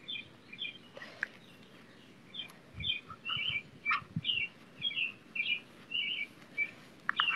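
A songbird chirping short, quick phrases about twice a second, with a few soft low thumps in the middle.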